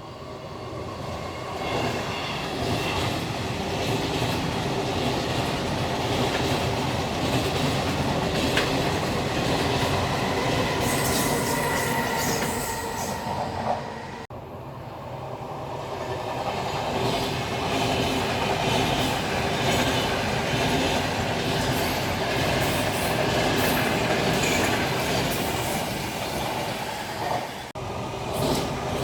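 A train running past on the rails, with wheel noise and a thin squeal of wheels on rail. The sound cuts off abruptly about halfway, then a second train pass builds up again.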